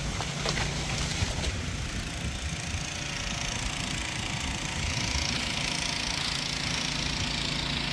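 An engine running steadily at idle, with a hiss that grows stronger about five seconds in.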